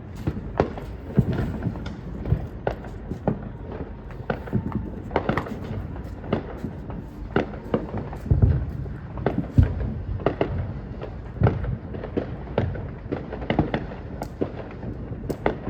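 Fireworks going off: an irregular string of sharp bangs and pops, about one or two a second, with a deeper boom about eight seconds in.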